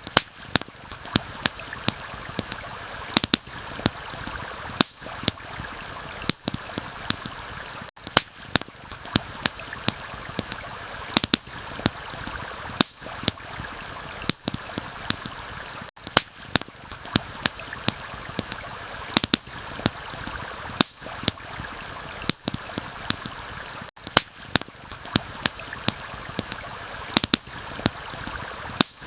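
Campfire crackling, with frequent sharp pops and snaps, over a steady rush of flowing stream water and rain. The sound dips briefly about every eight seconds.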